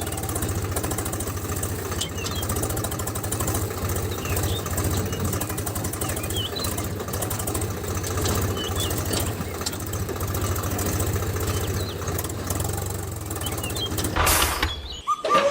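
Small engine of a homemade mini tractor running steadily with a fast, even pulsing. About 14 seconds in there is a short loud rushing burst, and the sound cuts off abruptly.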